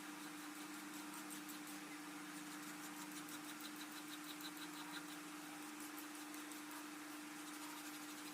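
A steady low hum holding one pitch, with faint rapid high ticking coming and going over it.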